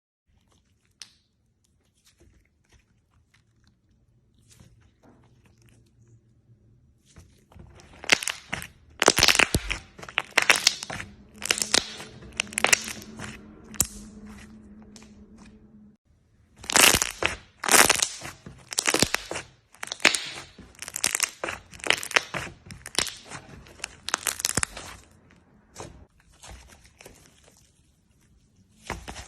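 Slime being squeezed and pressed by hand, giving crackly, popping sounds in loud runs that start about a quarter of the way in, with a short break around the middle and quieter crackles near the end.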